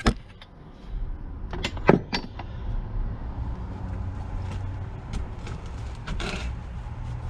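A few sharp clicks and knocks of engine parts being handled, bunched about two seconds in, then fainter ticks over a steady low hum.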